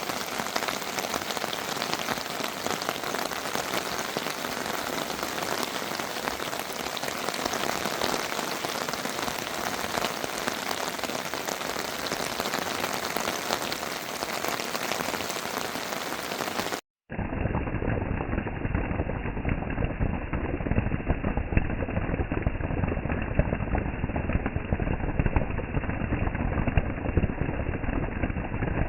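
Rain falling steadily as an even hiss. About seventeen seconds in, a brief gap gives way to a duller, deeper rush of rain.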